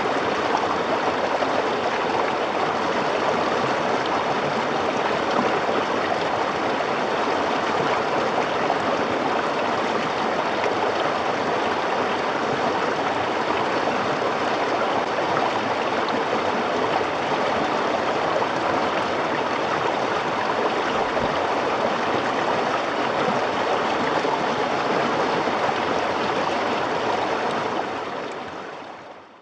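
A river running steadily over rocks, with no changes; it fades out near the end.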